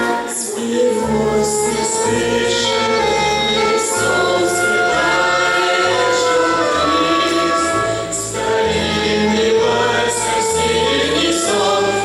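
Music: a choir singing sustained notes over an instrumental accompaniment with a bass line that moves in held steps.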